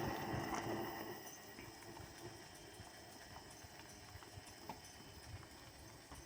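Battery-electric lawn tractor's motor humming under load as it strains to pull a car, fading about a second in. Faint, scattered light clicks and crunches follow.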